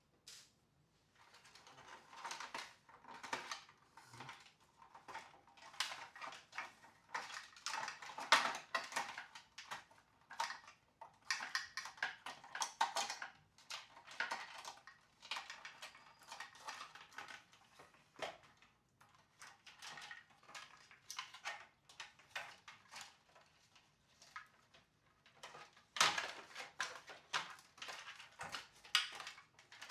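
Irregular clicking, scraping and rubbing of small hard parts being handled and worked on, while a floor washer's brushless suction motor is cleaned and its shaft lubricated. It starts about a second in, eases off briefly twice, and picks up again near the end.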